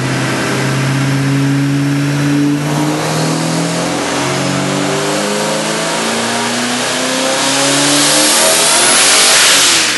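Twin-turbocharged 5.4-litre four-valve V8 of a Saleen Mustang making a wide-open-throttle pull on a dyno. The engine note climbs steadily, with a high whine rising and the sound getting louder toward the end. It cuts off sharply near the end, where the run was shut down as boost shot up to 22 psi.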